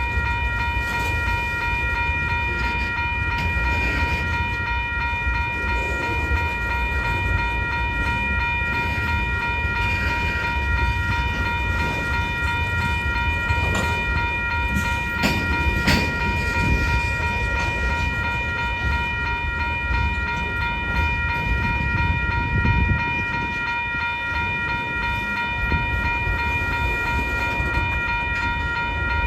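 Freight train cars rolling past: a steady low rumble of wheels on rail with scattered clicks, and a steady high-pitched tone held throughout.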